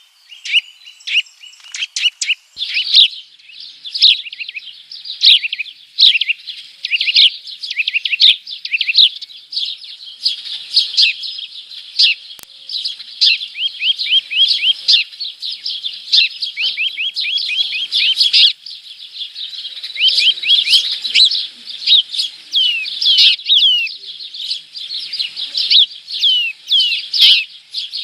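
Small birds chirping close to the microphone inside a birdhouse, a rapid, unbroken run of short falling chirps, several a second.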